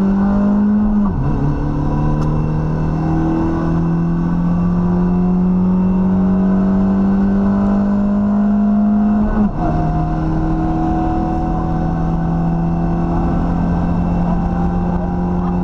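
Rally car engine heard from inside the cockpit, accelerating hard with the pitch climbing slowly. It is broken by two quick upshifts, one about a second in and one about nine and a half seconds in, each dropping the pitch before it climbs again.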